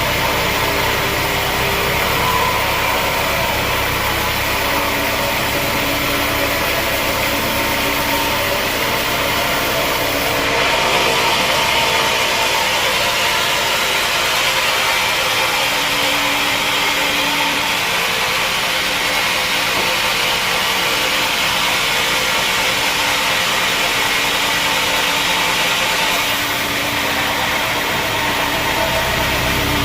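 Sawmill machinery running steadily with a constant engine-like drone. About ten seconds in the sound changes, losing some of its low rumble and growing brighter.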